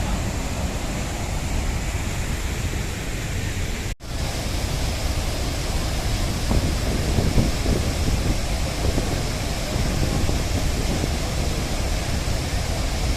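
Loud, steady roar of a large waterfall, Athirappally Falls, with a mass of water pouring down. The sound cuts out for an instant about four seconds in, then carries on.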